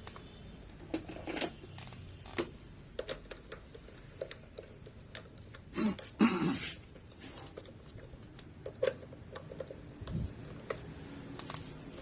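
Scattered light clicks and knocks of small engine parts being handled, with a louder clatter about six seconds in and a faint high steady whine after it.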